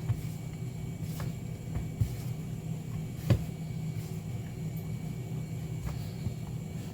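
Steady low kitchen hum with a few light knocks and taps from breading chicken pieces in flour by hand, the loudest tap about three seconds in.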